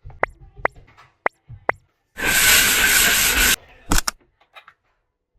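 Skincare product containers handled: four sharp clicks with a short ring, like caps and jars tapping, then a loud hiss lasting about a second and a half that starts and stops abruptly, then another couple of clicks.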